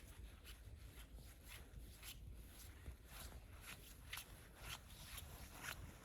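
Faint footsteps crunching in snow, about two even steps a second.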